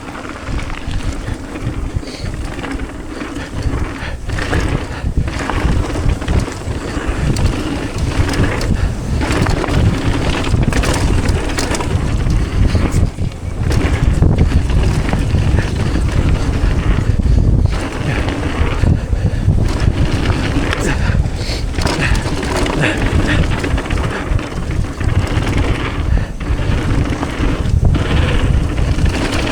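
Mountain bike ridden down a dirt trail, with wind buffeting the microphone in a loud, steady low rumble. Tyre noise and frequent knocks and rattles of the bike over rough ground sound through it.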